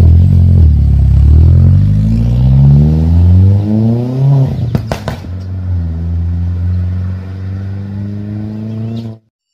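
Turbocharged VW Polo GTI engine with water-methanol injection accelerating hard away, its note climbing steadily. About five seconds in there is a short crackle at the gear change. After it the note climbs again more quietly as the car pulls away into the distance, and the sound cuts off abruptly near the end.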